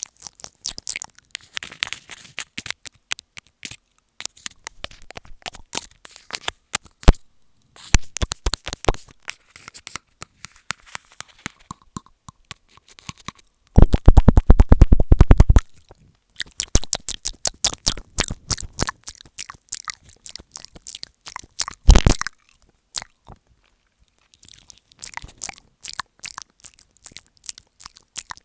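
ASMR mouth sounds made right against an earphone microphone ('mic eating'): irregular wet clicks and smacks, with a fast run of loud clicks about 14 seconds in and another loud burst a little after 22 seconds.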